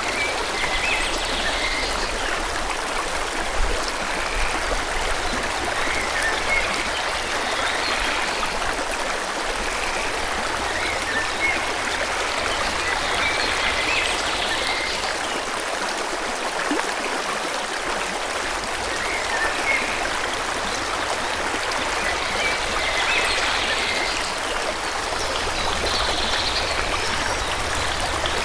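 A forest stream flowing steadily, with small birds chirping in short, high calls every few seconds over the water.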